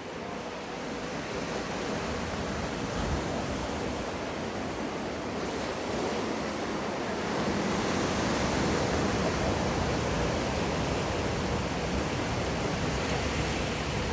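A wave breaking and surging in an Endless Surf wave pool: steady rushing water that builds over the first several seconds, then holds.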